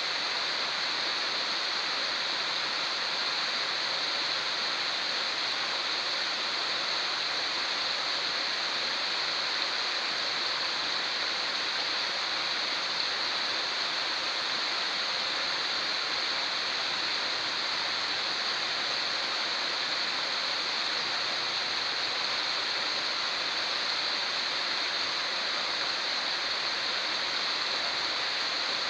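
Fast-flowing river water rushing steadily, with no pauses or changes.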